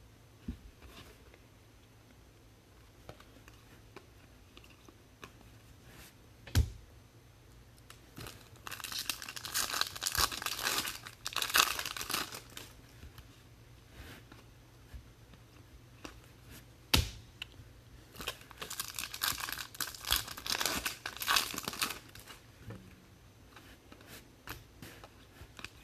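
Card-pack wrappers being torn open and crinkled by hand, in two bouts of tearing and crackling, each with a sharp knock just before it.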